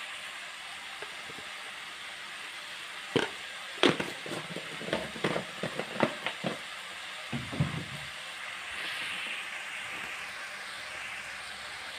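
Spiced masala frying in a pan, a steady sizzle. A run of sharp knocks and clatter comes between about three and eight seconds in.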